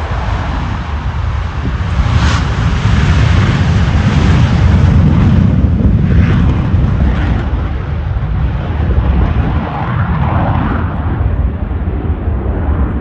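An aircraft flying past: a loud, low, rumbling noise that swells to its peak around five seconds in and then eases off slightly.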